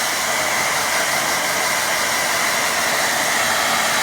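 Hair dryer blowing steadily, drying wet watercolour paint on paper.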